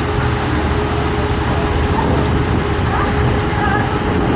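Steady loud rushing noise with a low rumble and a faint steady hum, typical of a water park's running water features, with faint distant voices.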